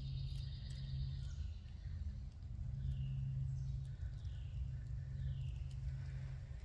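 Birds calling from the surrounding woods: a short buzzy trill about half a second in, then three separate descending high notes about a second apart. Under them runs a steady low hum.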